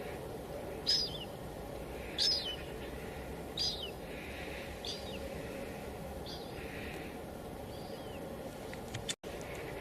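Steady hiss of drizzle, with a small bird giving a short chirp about every second and a half, the calls growing fainter after the middle. The sound cuts out for an instant near the end.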